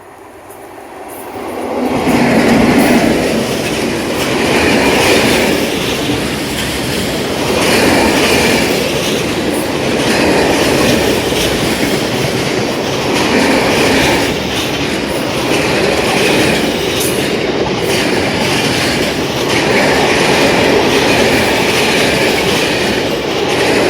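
Diesel-hauled freight train of fuel tank wagons passing close by. It swells in over the first two seconds, then carries on as a steady rolling rumble with wheel clatter that rises and falls about every two and a half to three seconds as each wagon goes by.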